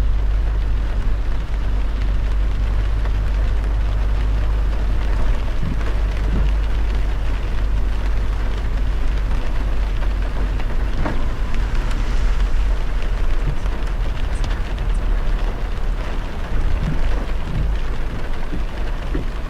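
Heavy rain striking a moving car, over a steady low road and engine drone, with scattered sharp drop clicks.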